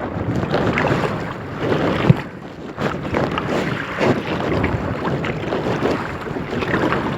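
Wind buffeting the microphone over water sloshing and splashing around a kayak on choppy water, with one sharp knock about two seconds in.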